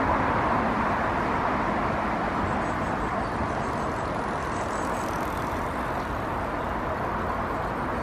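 Steady road traffic noise, with the tail of a wailing emergency-vehicle siren fading out at the start.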